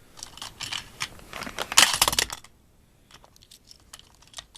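A die-cast toy truck and plastic track pieces being handled, giving a quick run of small clicks and rattles that is loudest about two seconds in, then a few scattered clicks.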